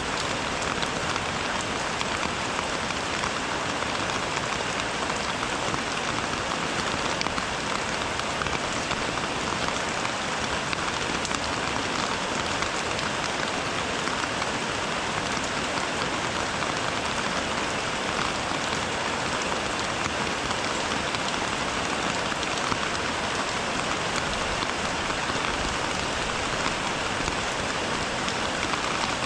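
Steady rain falling, a dense, even patter of drops with no change in strength.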